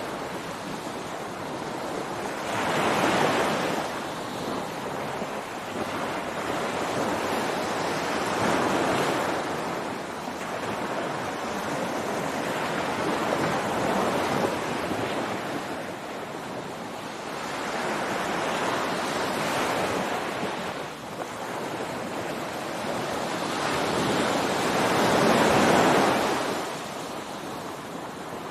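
Ocean surf breaking on a beach, five waves swelling and falling back about every five to six seconds, the last one the loudest.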